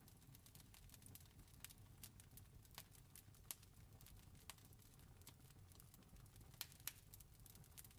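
Wood fire crackling faintly: irregular sharp pops and snaps over a low steady rumble, with two louder pops close together about two-thirds of the way through.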